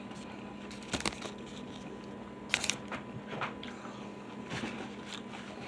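A person chewing a bite of a breaded fried-chicken sandwich with the mouth close to the microphone: a few short, scattered crunches and mouth clicks between quieter chewing.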